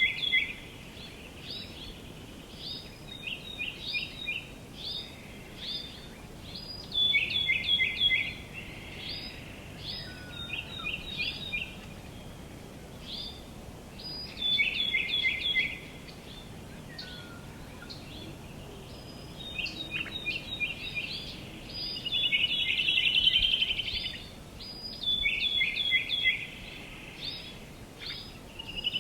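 Songbirds chirping in quick runs of short high notes, again and again, over a steady faint background hiss, with a faster trill about three-quarters of the way through.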